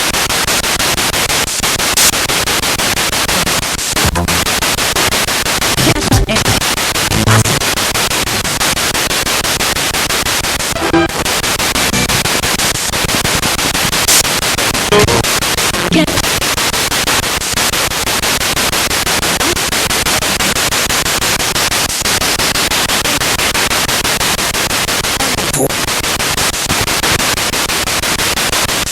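Spirit box radio sweeping through stations: a steady, loud hiss of static, broken by short dropouts and brief snatches of voices and music.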